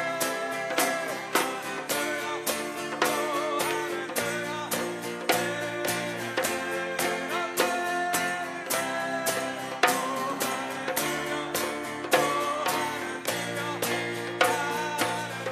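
Live worship band music: guitar with a steady drum beat, and singing.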